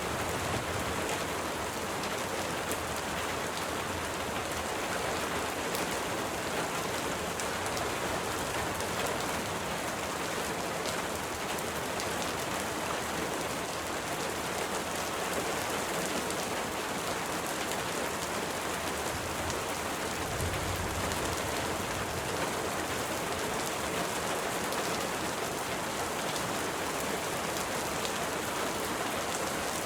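Steady rain falling: an even hiss with scattered drop ticks. A brief low rumble comes about twenty seconds in.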